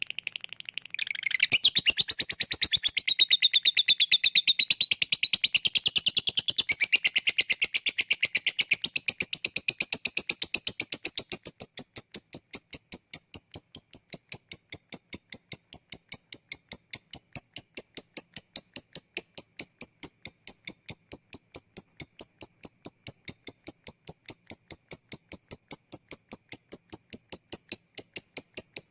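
Lovebird chattering in a long unbroken trill (ngekek). The trill wavers in pitch for the first ten seconds or so, then settles into an even, fast run of high chirps, several a second.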